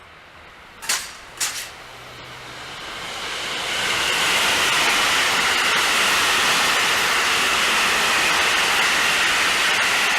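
An electric train passing on the line: a rushing rumble of wheels on rail builds over a couple of seconds and then holds loud and steady. Two sharp knocks come just before, about a second in.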